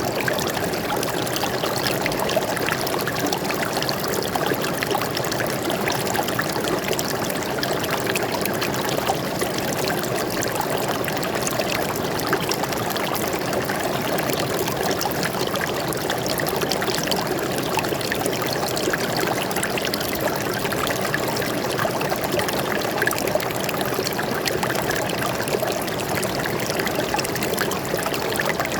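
Stream water flowing and splashing over rocks, a steady rush with fine trickling detail.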